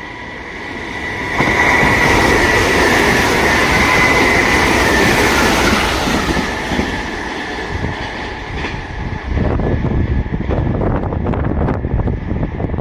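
Sanyo Electric Railway train running past on the rails: a loud rush of wheels with a high whine that comes up suddenly about a second and a half in. Near the end it turns into a quick run of clicks as the wheels go over the rail joints.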